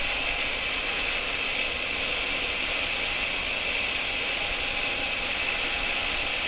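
Jet engines of a cargo airliner running steadily: an even rushing noise with a high-pitched hiss that does not change.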